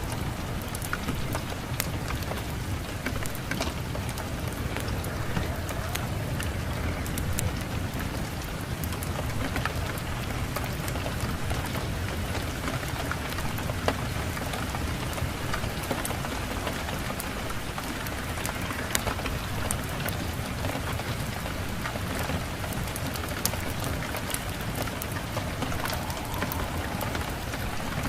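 Steady rain falling on a surface, a dense even hiss with many small sharp ticks of individual drops scattered through it.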